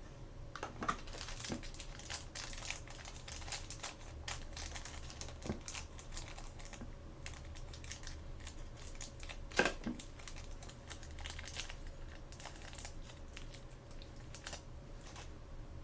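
Plastic toy packaging being handled and opened by hand: irregular crinkling and light clicks, with a sharper click just under ten seconds in.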